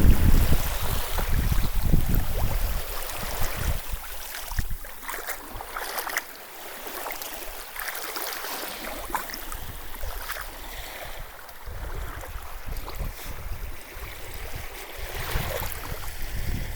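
Wind buffeting the microphone over the wash of sea water. The gusts are strongest at the start and again near the end, and in between it drops to a softer hiss with small splashing crackles.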